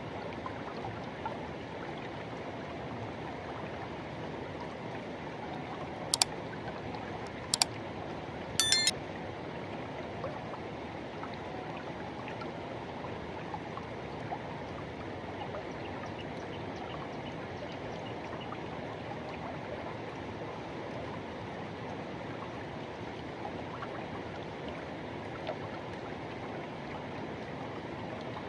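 Forest river rushing steadily over its bed. About six to nine seconds in, three short sharp sounds rise well above it, the third one briefly pitched.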